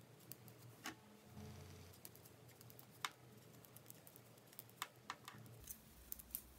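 Faint, scattered clicks of knitting needles tapping together as stitches are knitted, the sharpest about three seconds in and a quick cluster of clicks near five seconds.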